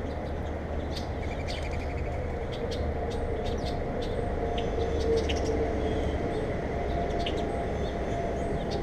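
Small birds at a bird feeder chirping: many short, high chirps scattered throughout, with a quick trill about a second and a half in. Under them runs a steady low rumble and hum.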